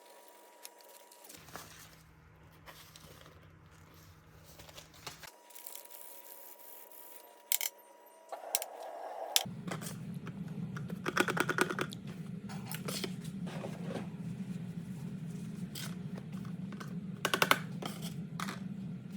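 Handling noises of small hand tools and parts: scattered light clicks, taps and short scrapes. A low steady hum joins about nine seconds in.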